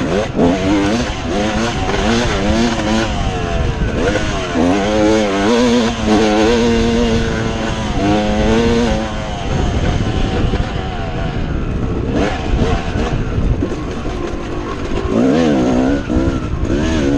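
Dirt bike engine revving up and down as it is ridden, its pitch rising and falling again and again. It holds a steady high note for a few seconds mid-way, drops back for a while, then revs up again near the end.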